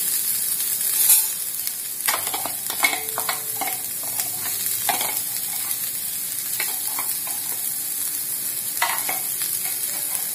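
Chopped vegetables sizzling in hot oil in a nonstick frying pan, a steady high hiss, with scattered taps and clatter as chopped corn and peas are tipped in from a bowl.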